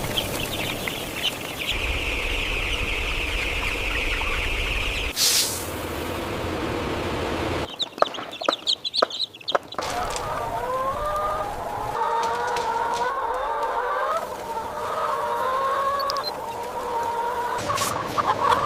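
Many chickens clucking together in the second half. Before that comes a steady machine hum with a high whine, then a stretch of rapid clicking and clattering.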